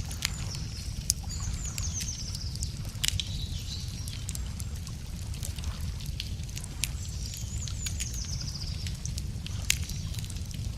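Wood fire crackling with scattered sharp pops, a few of them louder, while a songbird sings twice: each song is a run of quick high notes falling in pitch, lasting a second or so. A steady low rumble runs underneath.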